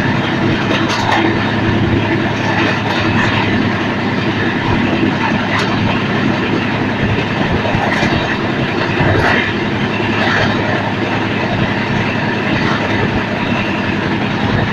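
Shan-e-Punjab Express passenger train running at speed: a steady rumble and hiss of wheels on track, with a few sharp clicks as the wheels pass over rail joints.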